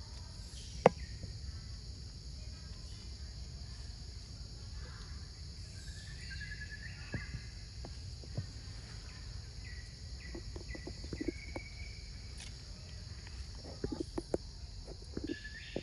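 Forest ambience: a steady high-pitched insect drone, with short bird chirps now and then and scattered sharp clicks and taps, the loudest a single click about a second in.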